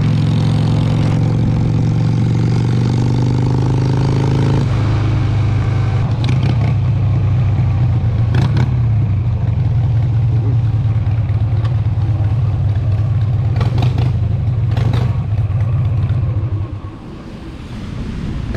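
Harley-Davidson Sportster 883's air-cooled V-twin engine running steadily with a low, even note, with a few sharp clicks over it. The engine sound falls away near the end, leaving a wind-like hiss.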